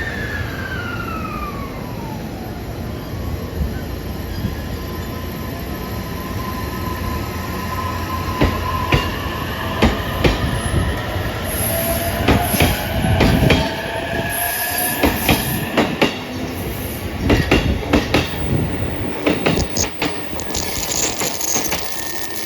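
JR East E233-3000 series electric train pulling away: the motors' whine glides up then down at the start. From about eight seconds in, the wheels strike the rail joints in quick clusters of clacks that come more often as the train gathers speed.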